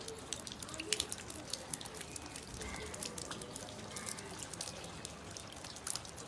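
Rain falling into a puddle: irregular drop splashes and clicks over a steady patter.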